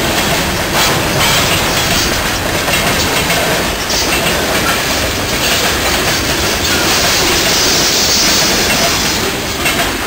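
CN freight train boxcars rolling past close by, steel wheels clacking over the rail joints with a steady rumble.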